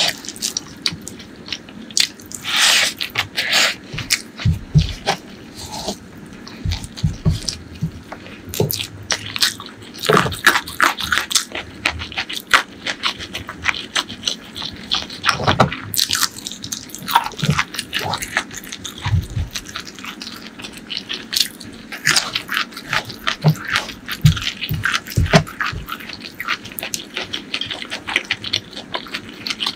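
Close-miked chewing of a mouthful of crispy fried food and rice, with many short crunches and clicks at an uneven pace.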